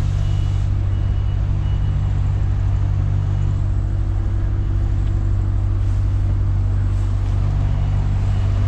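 Lorry diesel engine idling with a steady low drone.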